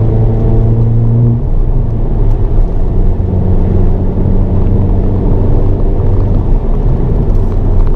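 Hyundai Avante N's 2.0-litre turbocharged four-cylinder engine heard from inside the cabin while lapping a race circuit. The strong steady engine note drops to a lower, rougher pitch about a second and a half in and then runs on over road and tyre noise.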